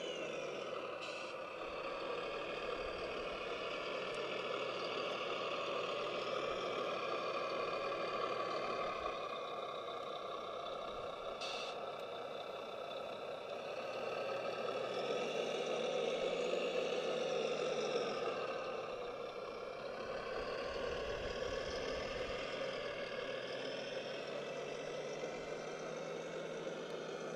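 Radio-controlled construction model running with a steady mechanical whir, its motor tone rising and falling as it works, with a brief click about halfway through.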